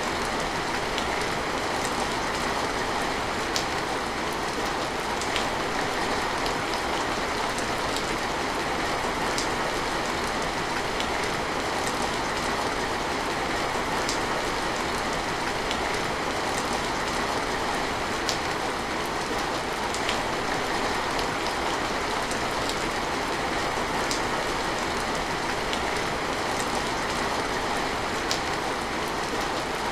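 Steady rain falling, with scattered individual drops ticking on a surface throughout.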